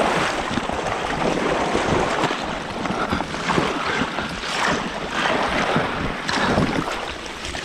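Water splashing and churning as a person thrashes in icy water through broken ice, with wind buffeting the microphone.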